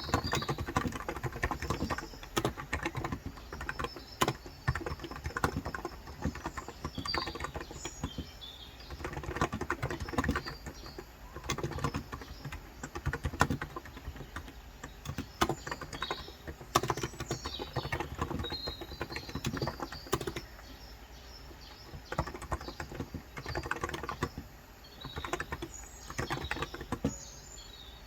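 Fast typing on a Cox Endeavor electrostatic-capacitive tenkeyless keyboard with light 35 g switches, in bursts of dense keystrokes with short pauses between. Birds chirp now and then in the background.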